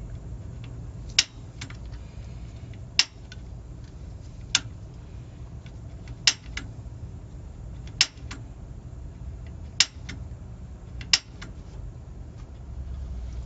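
Gas water heater's piezo igniter being clicked about every one and a half seconds, each sharp snap often followed by a fainter second click, while the pilot knob is held down with gas flowing. These are repeated attempts to light the pilot flame.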